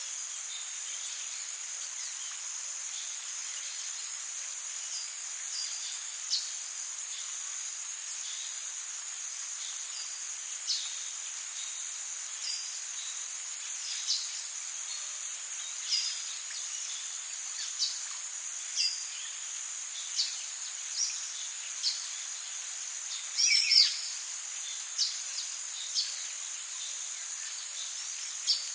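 Rainforest ambience: a steady high-pitched drone of insects over an even hiss, with short bird chirps every second or two and one louder, longer call about 23 seconds in.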